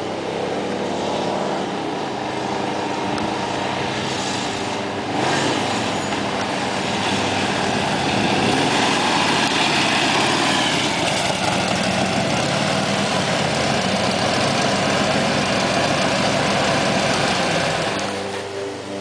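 1971 Harley-Davidson FLH's S&S 93-cubic-inch stroker V-twin running. It gets louder about five seconds in, stays loud through the middle, and eases off near the end.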